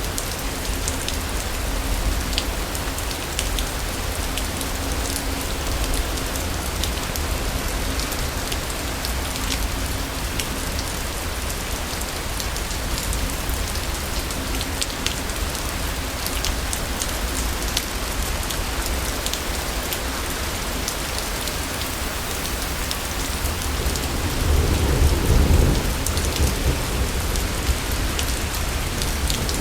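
Steady heavy rain with scattered sharp drips, and a low roll of thunder swelling up near the end.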